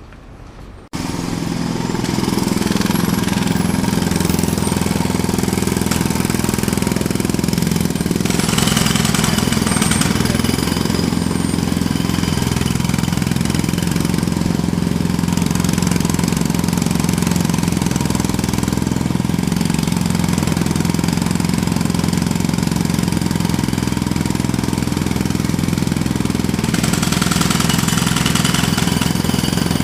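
Jackhammer starting up suddenly about a second in, then running loud and steady.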